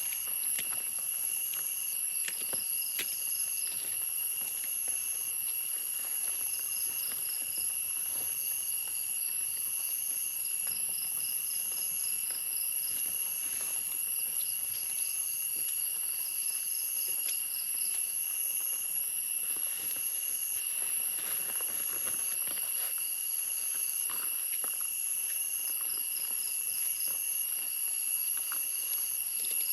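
A chorus of forest insects calling: a steady high-pitched buzz over a lower steady drone, with short pulsed trills repeating every second or two.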